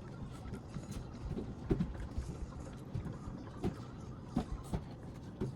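Close-miked eating sounds of shrimp and broccoli: chewing and wet mouth smacks, with scattered short clicks.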